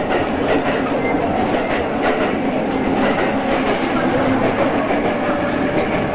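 Running sound of a JR East 113 series electric multiple unit heard from inside the car: a steady rumble with faint motor tones and wheels clicking over rail joints.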